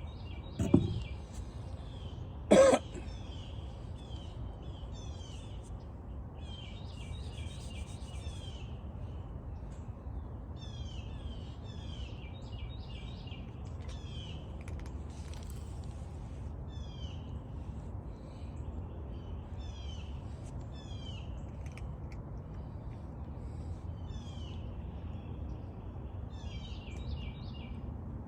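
Small birds chirping repeatedly in short, high, down-slurred notes over a steady low rumble. Two loud sudden thuds come in the first three seconds.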